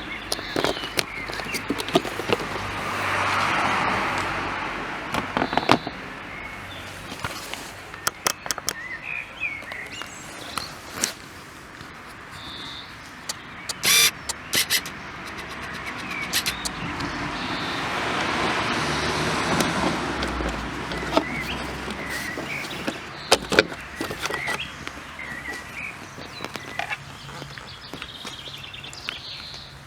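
Road vehicles passing by twice, each a whoosh that swells and fades, the first about three seconds in and the second about eighteen seconds in, with scattered sharp clicks and bird chirps in between.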